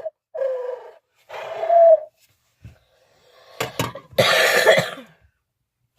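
Mouth-blown owl locator call sounding two short hoots, the second a little higher and longer. About three and a half seconds in, a person coughs.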